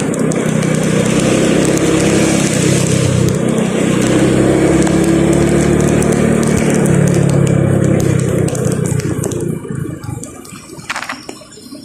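Road vehicle travelling on a wet road: a steady engine hum with a slow pitch rise partway through, under tyre and spray hiss. It dies down near the end.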